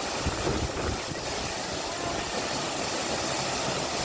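Waterfall pouring down, a steady, even rush of falling water.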